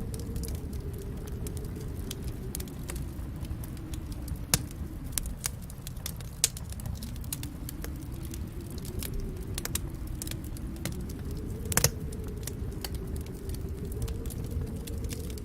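Fireplace wood fire crackling: a steady low rumble of the flames that slowly swells and eases, scattered with frequent sharp pops and snaps, including a louder quick double pop about twelve seconds in.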